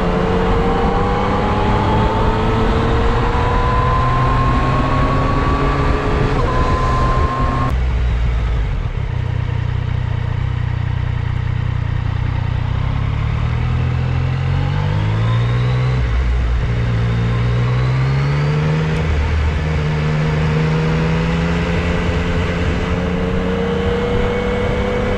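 Yamaha MT-09 SP motorcycle's three-cylinder engine under way, its pitch rising as it accelerates and stepping at gear changes, with wind rushing over a GoPro's built-in microphone. The hiss drops off suddenly about eight seconds in.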